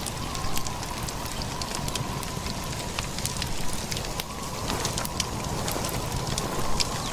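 Steady crackling with many small scattered pops over a continuous low rumble, with a faint steady tone held throughout.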